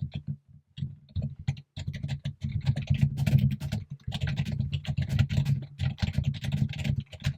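Fast, continuous typing on a computer keyboard, a rapid run of key clicks, sparse at first and then steady from about two seconds in.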